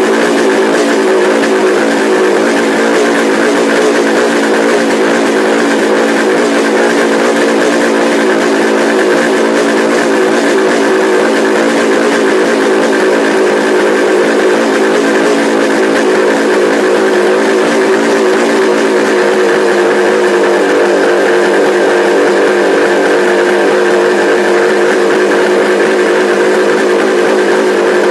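Kawasaki H1 500's three-cylinder two-stroke engine running at a steady idle, its note shifting slightly about twenty seconds in.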